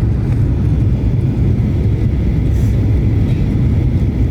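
Airliner cabin noise heard from inside the cabin: a steady low rumble of the engines and airframe just after landing.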